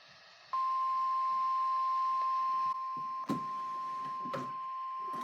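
NOAA Weather Radio warning alarm tone: one steady 1050 Hz tone that starts about half a second in and holds, signalling that a warning broadcast follows. Two brief knocks are heard over it in the second half.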